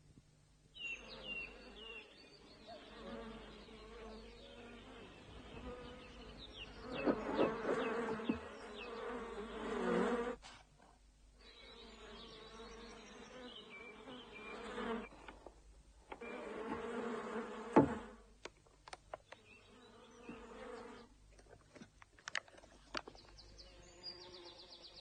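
Insect buzzing on a TV advert soundtrack, in sections that cut off sharply a few times, with a few sharp clicks in the later part.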